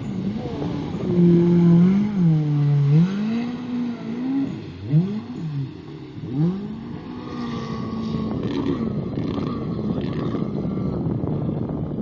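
Jet ski engine revving, its pitch rising and falling over and over. About seven seconds in it settles into a steadier drone with a rushing wash of noise.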